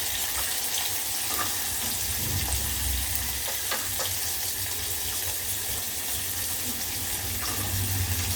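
Onions and green onions sizzling in hot oil in a pan, a steady hiss with a few faint utensil clicks.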